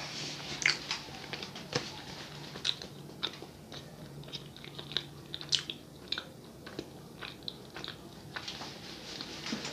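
Close-miked chewing of a soft, guava-filled Brazilian doughnut (sonho): irregular wet smacks and small mouth clicks, several a second, over a faint steady hum.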